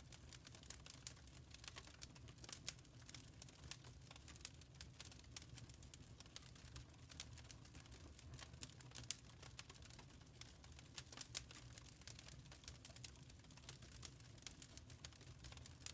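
Wood fire crackling in a fireplace: quiet, irregular pops and snaps over a steady low rumble.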